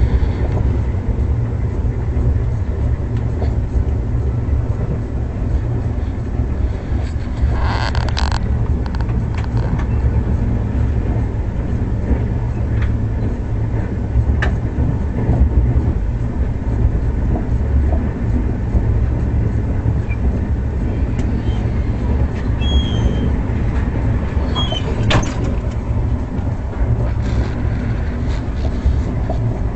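Steady low rumble of a passenger train running, heard from inside an air-conditioned coach, with a few short clicks and knocks, the most noticeable about eight seconds in.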